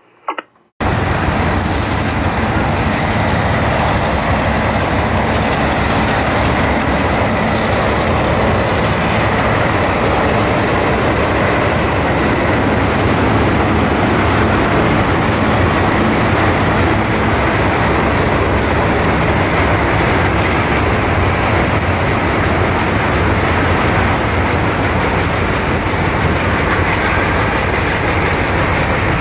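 Freight train rolling past: a steady, loud rumble and rattle of railcars on the track, cutting in abruptly about a second in.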